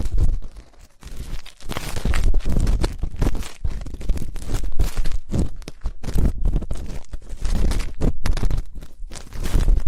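Ear-cleaning ASMR: an ear pick scratching and rubbing in an ear, heard very close, a dense, unbroken run of scrapes and crackles with dull low thumps.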